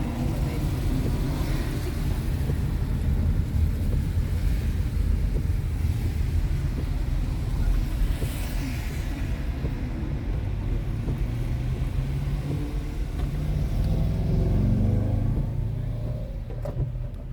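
Steady low road rumble and engine noise heard from inside a moving car's cabin, with the engine note rising for a couple of seconds past the middle as the car picks up speed.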